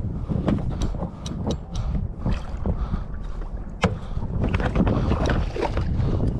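Wind buffeting the microphone on a fishing kayak at sea, with water against the hull and scattered short knocks and clicks, one sharper knock a little before four seconds in.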